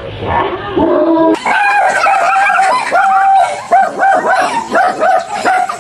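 A dog barking and yipping in a rapid run of short, repeated barks.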